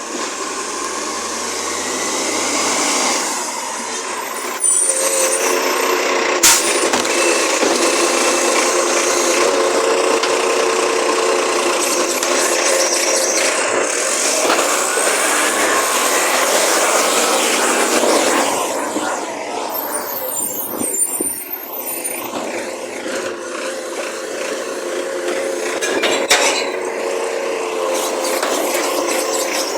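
Recycling collection truck working, its engine and hydraulics running steadily, with a sharp knock about six seconds in and another near the end.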